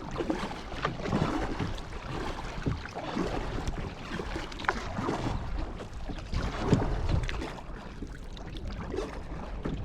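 Kayak paddle strokes: the blades dipping and pulling through the water with irregular splashes and drips.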